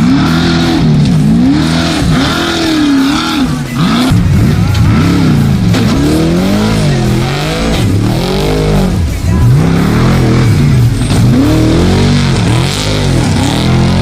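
Trophy truck engine at full race pace, revving up and dropping back again and again, about once a second, as the throttle is worked on and off.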